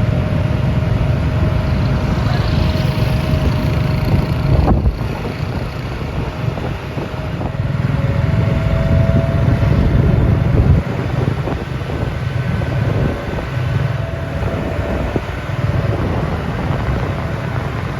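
JCB backhoe loader's diesel engine running steadily at work, a low rumble with a faint higher whine that comes and goes.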